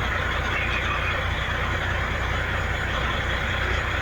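Heavy diesel equipment running steadily: a dump truck's engine and working excavators give an even low rumble with a constant hiss over it.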